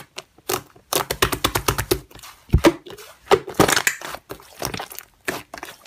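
Slime being squeezed and pressed by hand, making a rapid, irregular series of wet clicks and pops, densest about a second in and again past the middle.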